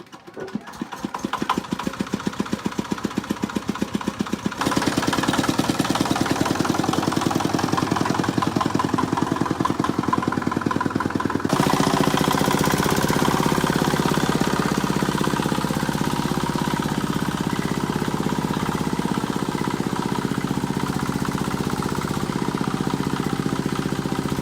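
A small engine starts up and runs with a steady, even beat. It gets louder about four seconds in and changes its note again about halfway through, then keeps running steadily.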